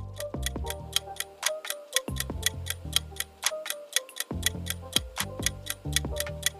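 Quiz countdown timer ticking about four times a second over electronic background music with a bass line.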